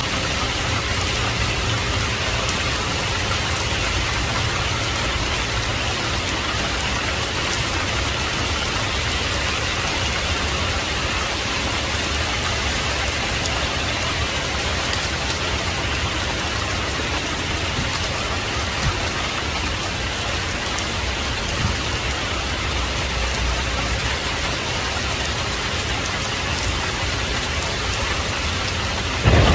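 Heavy rain falling steadily, an even hiss of rain on surfaces. Right at the end a thunderclap breaks in suddenly and loudly.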